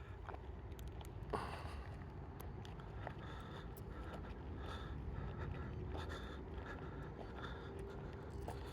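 Footsteps and scuffs on rough ground during a walk down a steep path, with scattered clicks and scrapes over a steady low rumble and one sharper knock about a second in.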